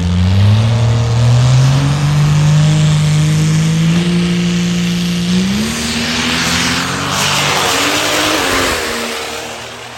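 High-horsepower diesel truck engine running at full throttle under load, its pitch climbing and stepping up about halfway through, then the sound fades over the last couple of seconds.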